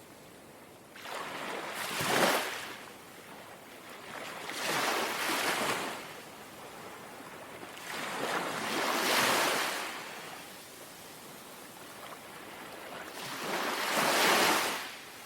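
Small, gentle sea waves lapping. Four soft washes swell and fall back, about four seconds apart.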